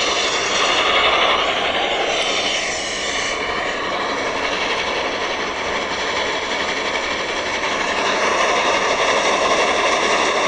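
Steady, loud rushing noise of a train running past, cut in and out abruptly as an inserted sound effect.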